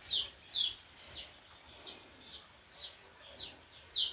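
A small bird chirping over and over, about two short high chirps a second, each one falling in pitch; the chirps are stronger near the start and again near the end.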